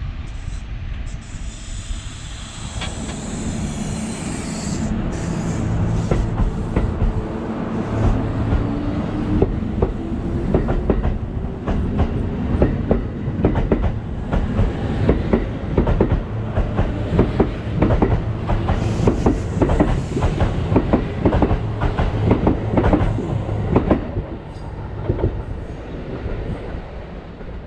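Kintetsu 21000 series Urban Liner Plus limited express pulling away from the platform. A motor whine rises in pitch as it accelerates, then a long run of wheel clatter over the rail joints comes faster as the cars pass, and it fades near the end.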